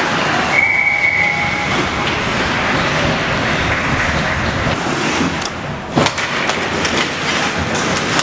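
Ice hockey game noise: a continuous rumble and scrape of skating play, with a held high tone lasting about a second, starting half a second in, and a sharp knock about six seconds in.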